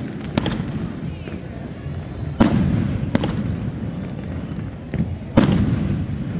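Fireworks going off: about five sharp bangs of bursting shells, the loudest two about two and a half and five and a half seconds in, over a steady low rumble of further explosions.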